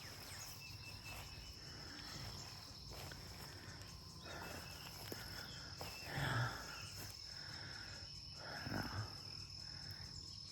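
Insects droning with one steady high-pitched tone, and two brief louder rustling noises about six and nine seconds in.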